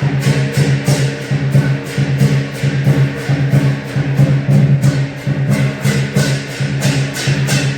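Lion dance percussion band playing: drum, clashing cymbals and gong in a steady driving rhythm, with about three or four cymbal clashes a second.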